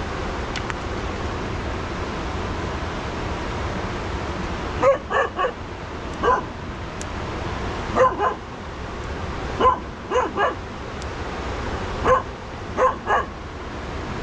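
A dog barking in short groups of two or three barks, starting about five seconds in, over a steady rushing background noise.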